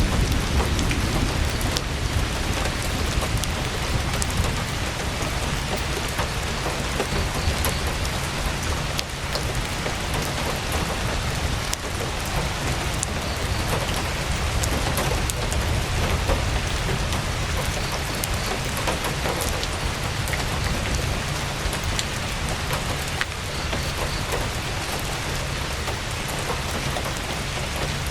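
Heavy rain falling on a tent: a steady, dense hiss with a low rumble underneath and scattered sharp ticks.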